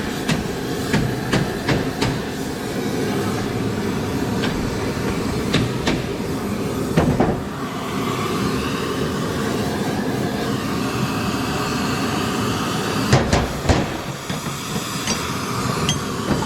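Hammer blows, quick and regular at first, then a few scattered strikes, over a steady rushing noise.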